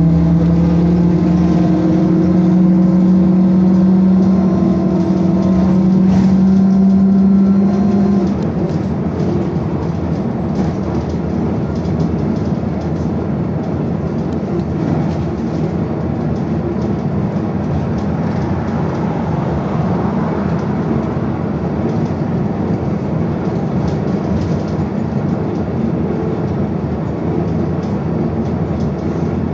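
BKM-221 trolleybus's electric traction drive whining as it accelerates, the whine rising slowly in pitch for about eight seconds and then cutting off suddenly. After that, steady road and rolling noise as the trolleybus runs on.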